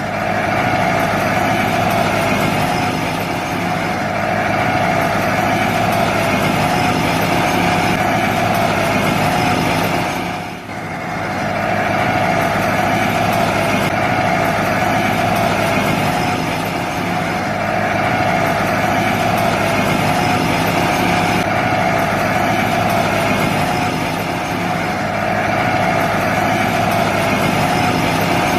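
A small motor running steadily with a strong steady whine; it dips briefly about ten seconds in and then picks up again.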